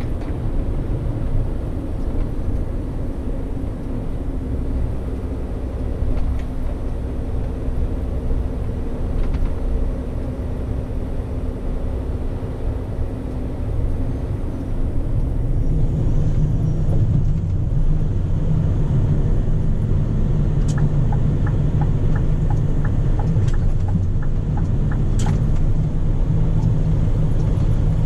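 Scania P400 truck's diesel engine running with road rumble, growing louder and deeper about halfway through. A run of faint light ticks sounds over it in the second half.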